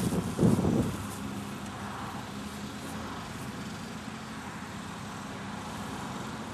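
Steady rumble of distant road traffic, with a brief low rush of noise in the first second.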